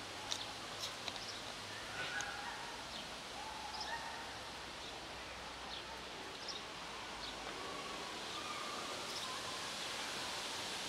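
Outdoor ambience: a steady background hiss, growing slightly louder near the end, with scattered short, high bird chirps and a few sharp clicks in the first second or so.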